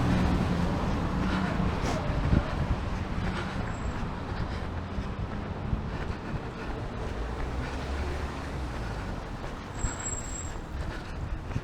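Low engine rumble of passing road traffic, loudest at the start and fading away over the next few seconds.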